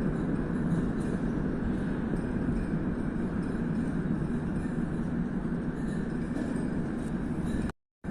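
Metro train running at the station, a steady rail noise with a low hum. It cuts out briefly near the end.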